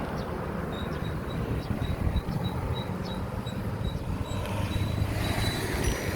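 Wind on the microphone and tyre noise of a bicycle being ridden, a steady rushing. A faint, high, regular tick about three times a second runs through most of it.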